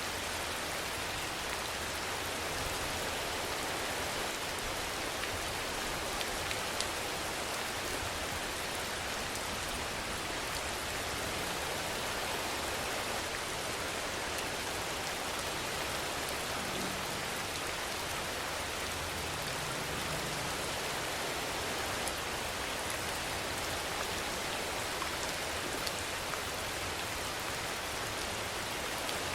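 Steady rainfall, an even hiss with a few sharper drop ticks here and there.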